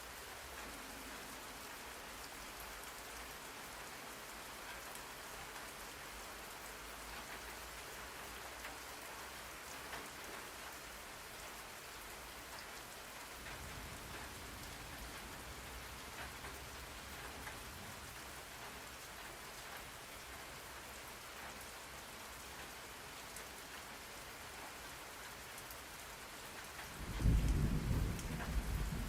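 Steady rain falling. Near the end, a loud, low rumble of thunder sets in.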